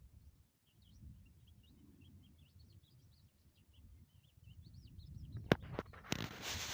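Small birds chirping faintly in quick, wavering high notes. Near the end a sharp click comes, then a louder rush of noise that covers them.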